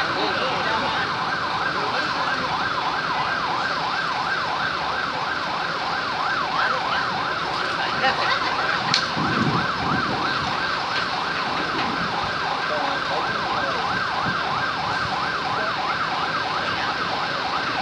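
Electronic siren in a fast yelp, its pitch sweeping up and down several times a second without a break. A brief low rumble rises over it about nine seconds in.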